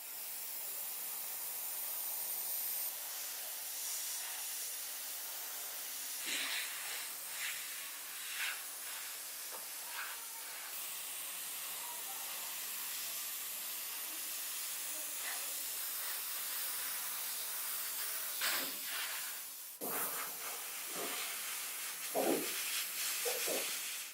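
A steady spraying hiss, as of compressed air or spray being blown onto a part, with a few light knocks and clicks, most of them near the end.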